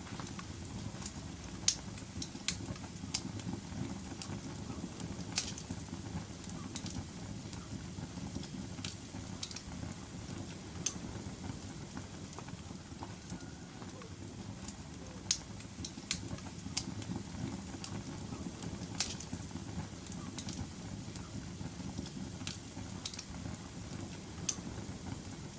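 Wood fire burning in a fireplace: a steady low rustle of flames with irregular sharp crackles and pops every second or two.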